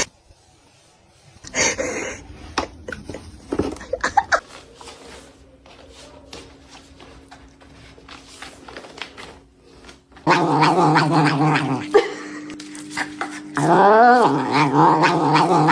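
Domestic cat caterwauling: a loud, long drawn-out yowl starting about ten seconds in, sliding up and back down in pitch once near the end. Before it, scattered small knocks and clicks.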